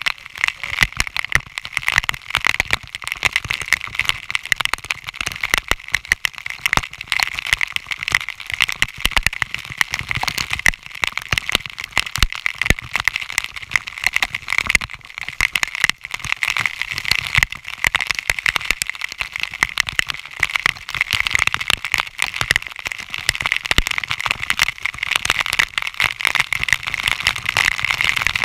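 Waterfall spray and droplets pelting the camera's housing in a dense, unbroken crackling spatter.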